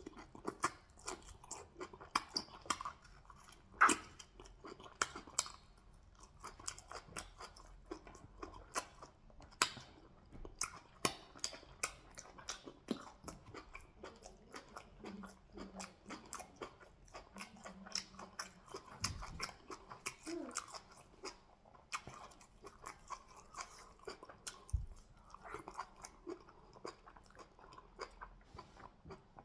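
Close-up eating sounds: wet, sticky chewing and mouth smacks, with irregular clicks throughout as fufu, goat meat and peanut soup are eaten.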